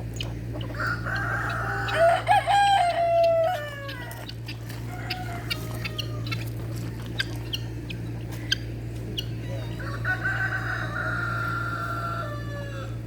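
Rooster crowing twice: one long crow about a second in, the other near the end.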